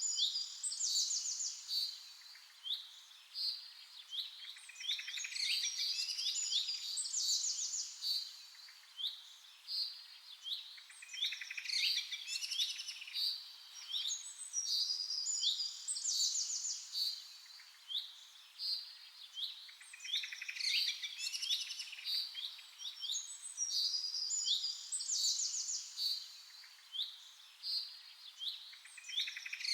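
Birds chirping and singing: quick high chirps and fast trills, overlapping and coming in bursts every few seconds.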